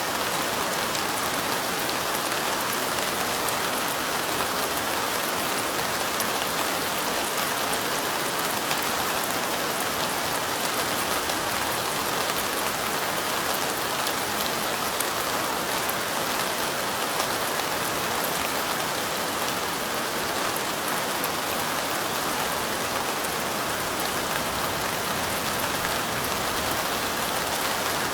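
Steady light rain, an even, unbroken patter of drops with faint fine ticks of individual drops.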